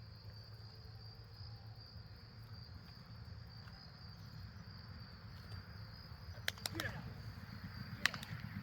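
Insects trilling steadily in a high, unbroken band, over a low rumble. A few sharp clicks come near the end.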